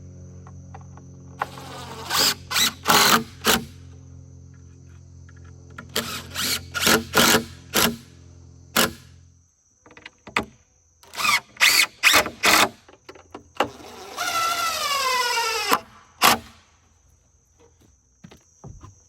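Groups of sharp knocks, several in quick succession, over a steady low hum that stops about halfway through. Crickets keep up a high, steady chirring. Near the end, a short whine falls in pitch and stops.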